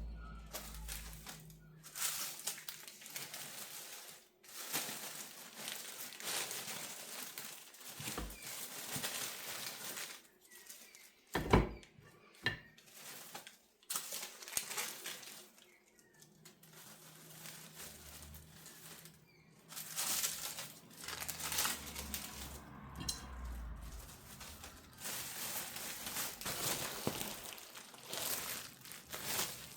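Baking paper crinkling and rustling in irregular bursts as it is handled, with one sharp knock about eleven seconds in.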